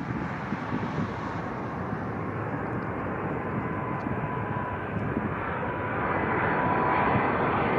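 Jet airliner engines running, a steady rushing noise with a whine that grows louder in the second half as the aircraft comes closer.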